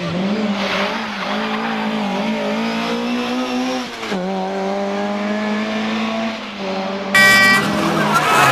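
Race car engine running hard at fairly steady high revs, with a short drop about four seconds in, as at a gear change or lift. A louder, harsher sound cuts in abruptly near the end.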